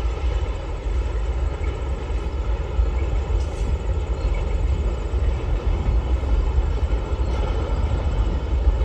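Long freight train rolling past, a steady rumble of its wagons on the rails.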